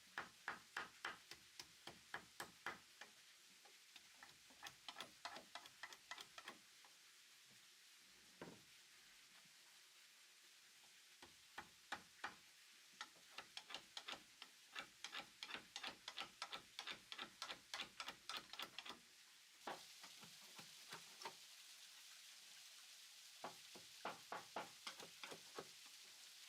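Faint runs of quick, light taps, about four a second, in bursts of a few seconds with pauses between. A steady hiss joins about twenty seconds in.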